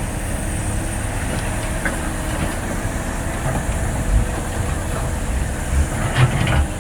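Excavator's diesel engine running steadily under load while digging hard soil, with metal clanks and heavy thumps from the bucket and arm. The knocks come several times in the second half, the loudest cluster near the end.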